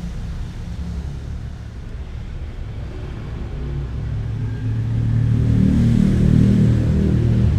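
Low engine rumble of a passing motor vehicle, growing louder from about halfway through and at its loudest near the end.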